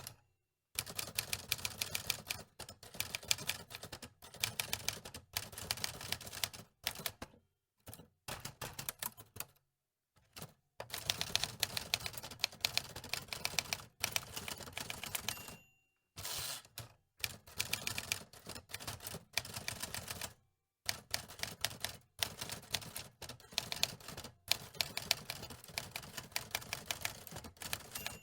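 Manual typewriter typing in fast runs of key clacks, broken by several short pauses, with a brief ring about halfway through.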